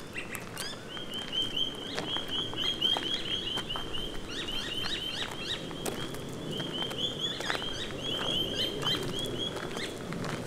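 A bird giving a long run of rapid, repeated short high chirps, several a second, starting about a second in, over the crunch and rustle of footsteps on a bush track.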